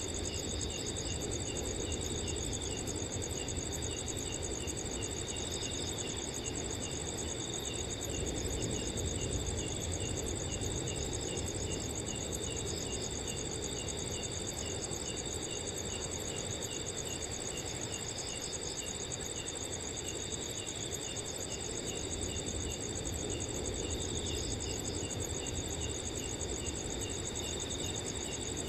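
Several crickets chirping together without pause, one giving evenly spaced short chirps over the steady high trills of the others, with a low rush of wind underneath.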